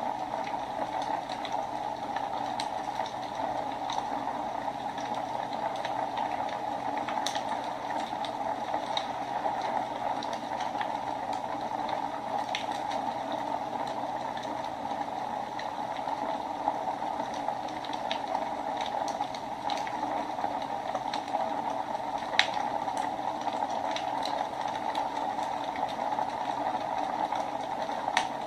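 Wood fire burning in a fireplace: a steady hiss with scattered crackles and pops, one sharper pop about three-quarters of the way through.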